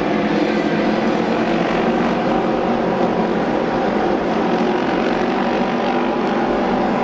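Pack of auto race motorcycles with 600 cc parallel-twin engines running flat out around the oval, a steady, dense engine noise with no let-up.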